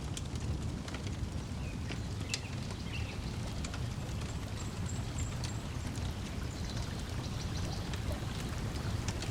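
Lake water lapping at the shore in a low steady wash, with scattered crackles from a wood fire and a few faint bird chirps.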